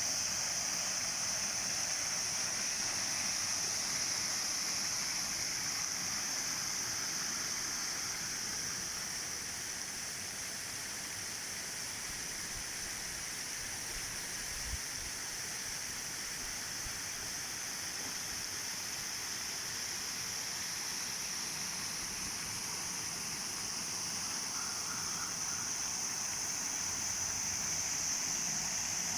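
Water pouring down an artificial rock waterfall into a pond: a steady rushing wash, with a constant high hiss above it.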